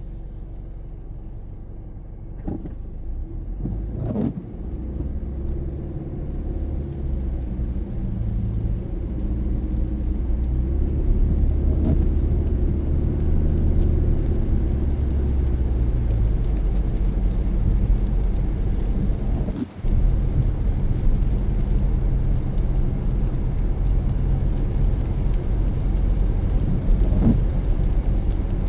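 Car driving: engine hum and road noise grow louder over the first ten seconds as it gathers speed, then hold steady, with a brief drop in level about two-thirds of the way through.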